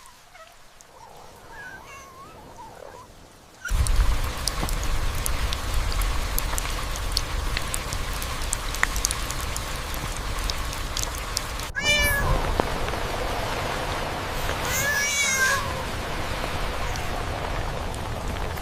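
A cat meowing: faint meows in the first few seconds, then, after a sudden jump to a steady loud hiss, a meow about twelve seconds in and a longer one about fifteen seconds in.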